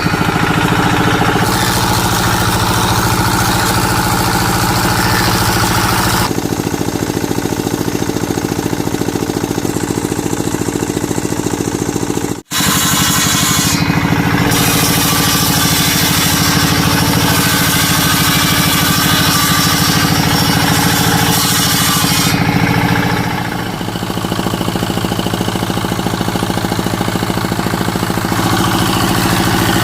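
A motor-driven power tool running steadily, its tone changing abruptly a few times, with a brief break about twelve seconds in.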